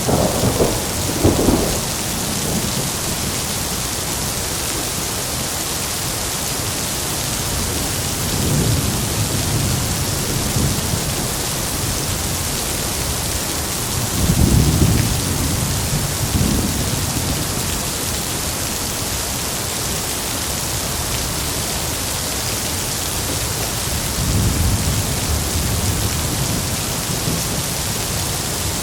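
Heavy steady rain with rolls of thunder. Low rumbles swell up about a second in, again around a third of the way through, loudest near the middle, and once more near the end.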